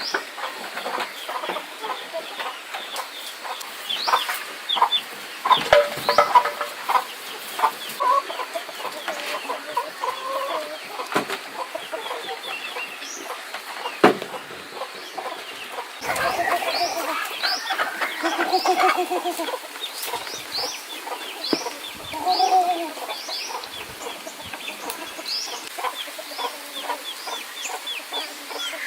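Chickens clucking, louder in two stretches past the middle, with short high chirps repeating throughout. A single sharp knock comes about halfway through.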